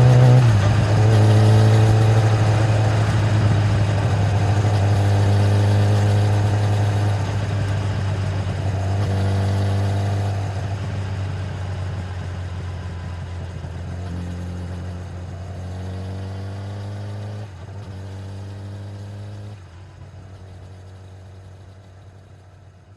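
2013 Kawasaki ZX-10R's inline-four engine through its stock exhaust, running at steady revs, dropping in pitch about half a second in, with a few brief rises in revs later. It fades out gradually toward the end.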